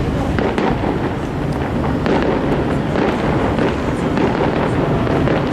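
Aerial fireworks going off: many overlapping bangs and crackles in quick succession over a steady, dense rumble.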